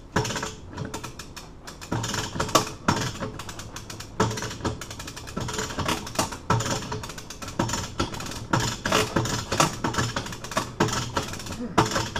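Hand-cranked winch ratcheting under heavy load, its pawl clicking over and over in quick, uneven runs as it is cranked to force bolt cutters shut on a hardened steel padlock shackle.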